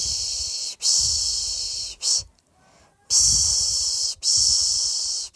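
A person's soothing 'pış pış' shushing to lull a baby to sleep: long hissing 'shh' sounds in a repeating rhythm, two long shushes and a short one, a pause of about a second, then two more long shushes.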